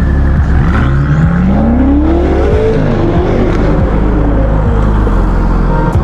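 BMW M5 G30's twin-turbo V8 accelerating hard. The engine note climbs steadily for about two seconds, then drops back and tails off.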